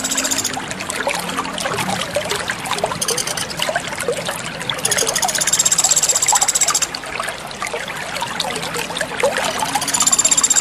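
Water trickling and babbling steadily over stones. A high, rapid buzzing trill comes in for about two seconds at a time, once in the middle and again near the end, repeating at an even spacing like a looped recording.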